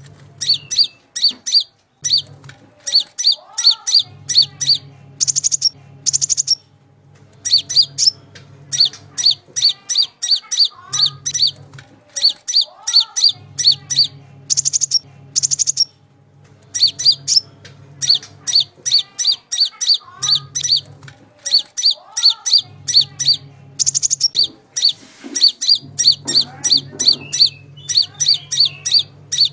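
A konin songbird singing: long runs of sharp, high, rapidly repeated chirps, about five a second, in phrases broken by brief pauses, with an occasional lower rising-and-falling whistle. A low hum comes and goes with the phrases.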